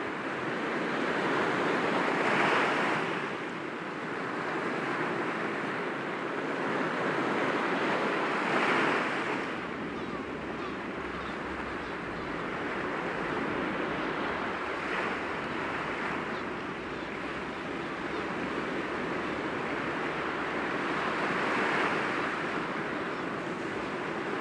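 Sea waves breaking gently against rocks over a steady wash of surf, swelling and easing four times, about every six seconds.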